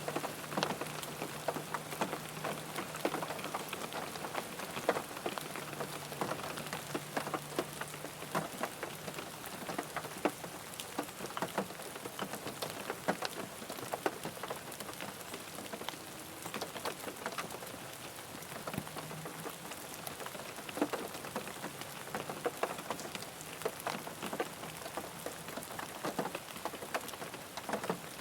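Steady rain falling on a car roof, heard from inside the car: an even hiss with many single drops ticking against the roof.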